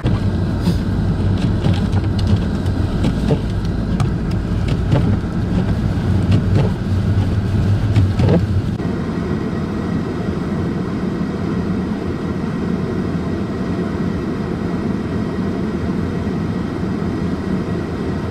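A motor vehicle's engine hum and road noise, steady throughout. Scattered sharp ticks and knocks sound over it for about the first eight and a half seconds, after which the sound becomes smoother.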